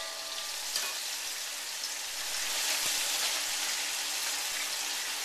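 Minced garlic and ginger sizzling in hot oil in a wok: a steady hiss.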